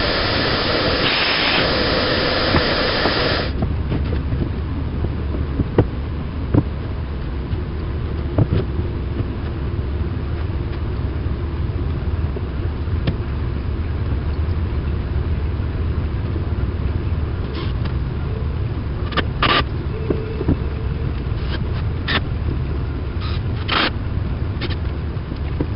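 A loud, steady machine noise cuts off suddenly about three and a half seconds in, leaving a low steady hum with scattered knocks and clicks.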